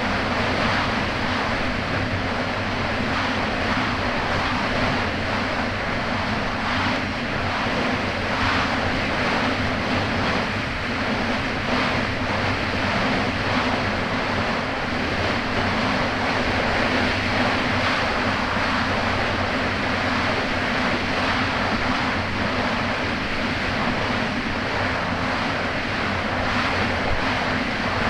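Kawasaki Ultra 300X jet ski's supercharged four-cylinder engine running steadily at speed, over the rush and slap of choppy water and wind buffeting the microphone.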